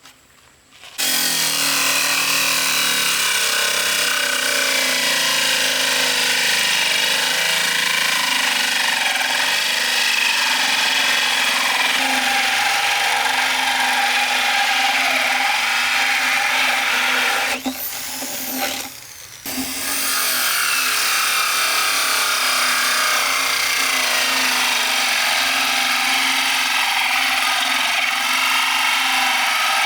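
A power tool running steadily, starting about a second in and stopping briefly about two-thirds of the way through before running again.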